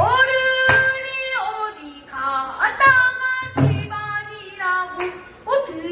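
A child singing pansori, Korean narrative song, unaccompanied by other voices: long held notes that slide and waver in pitch, broken into a few phrases.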